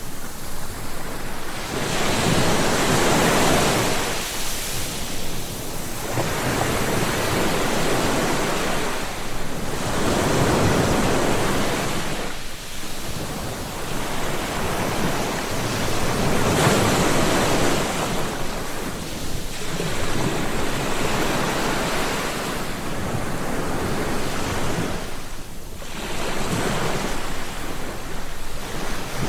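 Ocean waves breaking and washing on the shore in slow swells, each one rising and fading over a few seconds, with wind noise underneath.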